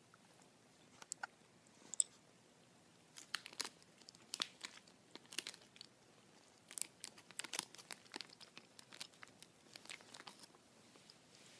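Gummy bears being chewed right at the microphone: wet, sticky mouth clicks and squelches in an irregular run. There are a few isolated clicks at first, then dense chewing from about three seconds in until just before the end.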